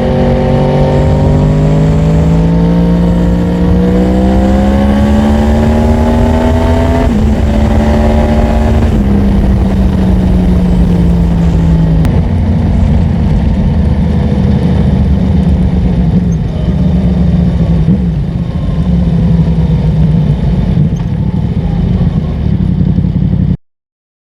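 Yamaha MT-10's crossplane inline-four engine running under load while riding: the engine note climbs steadily for about seven seconds, drops at a gear change, then holds a fairly steady pitch with small rises and dips. The sound cuts off abruptly near the end.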